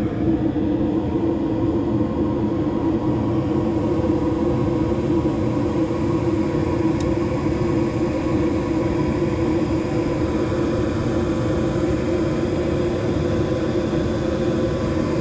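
Furnace running steadily after being fired up for a heat test: an even rumble and rush of air with a low hum, no change in level.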